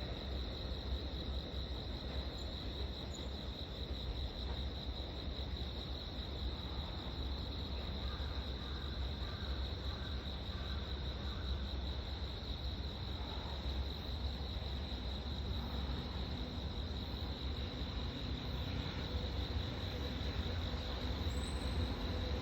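Insects, likely crickets, trilling steadily in one continuous high-pitched band, over a steady low rumble.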